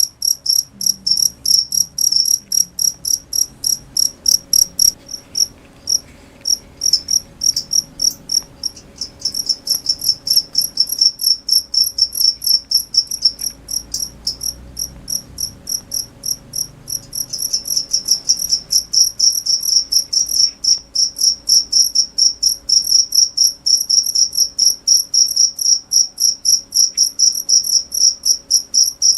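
Cricket chirping: a steady run of short, high-pitched chirps, about four a second, with a couple of brief breaks.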